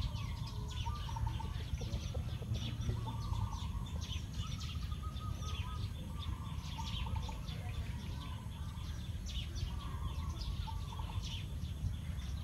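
Birds chirping and calling again and again in outdoor ambience, over a low steady rumble.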